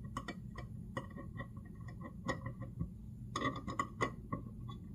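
Irregular light clicks and taps, a dense cluster of them about three and a half seconds in, over a faint steady low hum.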